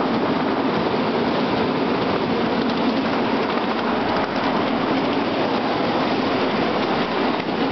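Steady rolling noise of a ridable miniature train's steel wheels running along the track, heard from aboard the moving train.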